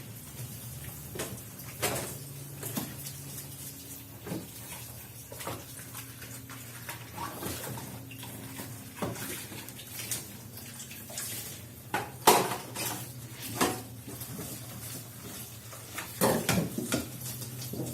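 Dishes, pots and cutlery clinking and clattering at irregular intervals as they are washed and handled at a kitchen sink, over a steady low hum. The sharpest clank comes about 12 seconds in, and there is a flurry of clinks near the end.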